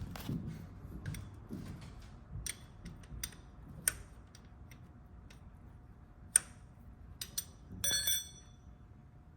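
Hand tools and metal parts clinking in a series of sharp, separate clicks, ending about eight seconds in with a brief ringing metal clink.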